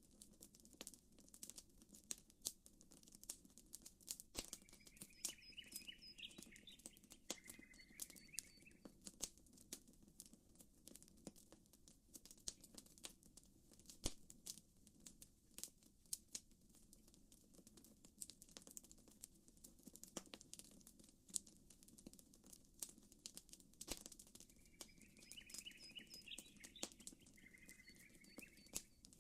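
Campfire crackling, with frequent sharp pops over a faint steady low hiss. A bird sings a short chirping phrase twice, about 4 seconds in and again about 24 seconds in, the same phrase both times.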